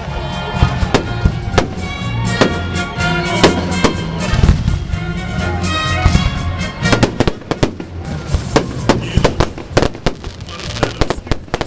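Fireworks salute going off: sharp bangs and crackles in quick succession, coming thicker in the second half. Music with held tones and a deep bass line plays under the first part.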